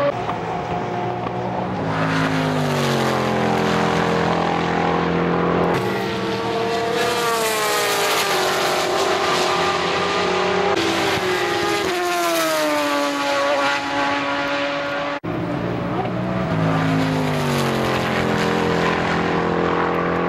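Sports-prototype and GT race cars going by on track, their engines running hard, the pitch of each falling as it passes or brakes for the corner. Several passes follow one another, with the sound breaking off abruptly between some of them.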